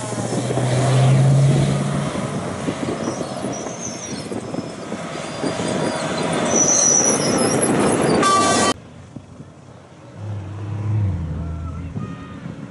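Dakar Rally race truck driving past at speed: the engine runs over a loud rush of tyre and wind noise. About nine seconds in the sound cuts off abruptly to a quieter scene, where an engine is heard again more faintly.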